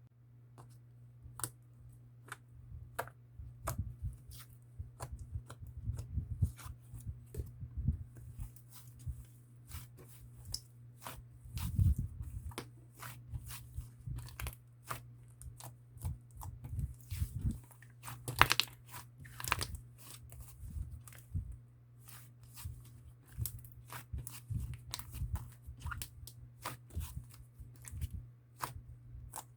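Sherbet slime being kneaded and mixed with a little whipped-cream slime by hand, making irregular sticky clicks and pops throughout, over a steady low hum.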